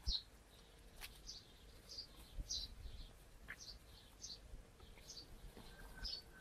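A small bird chirping faintly and repeatedly, a short high chirp every half second to a second.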